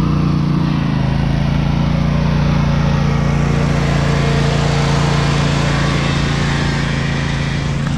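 Small engine of a lawn-mower-based mud mower running steadily at full throttle under load, driving through a sand pit.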